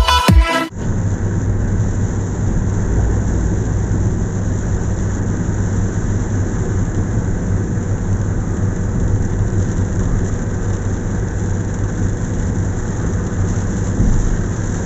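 Car driving on a highway in heavy rain: a steady low road and engine drone mixed with the hiss of rain.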